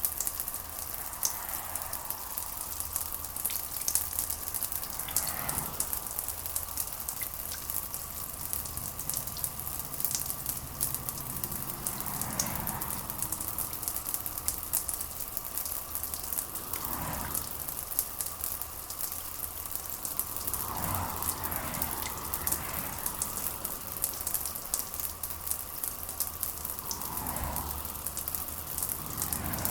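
Steady rain pattering, dense with the fine ticks of individual drops. A softer, muffled sound swells and fades several times underneath.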